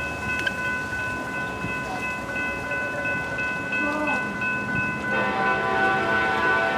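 Commuter train's locomotive horn sounding a long chord from about five seconds in, over a steady high ringing that runs throughout.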